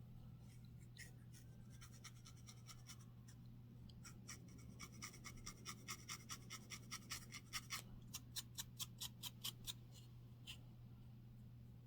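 Scratching on a scalp to loosen dandruff: a few scattered scratchy strokes, then a quick run of short, even strokes, about four a second, for several seconds.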